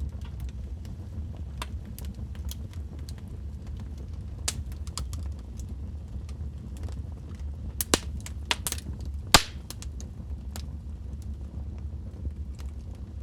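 Burning logs crackling in a fireplace: a steady low sound of the fire with scattered sharp pops and snaps. A quick run of louder pops comes about eight seconds in, and the loudest single crack follows about a second later.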